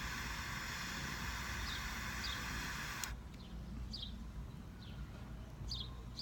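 Short, high bird chirps, each falling slightly in pitch, about once a second. Under them is a steady hiss that cuts off suddenly about three seconds in.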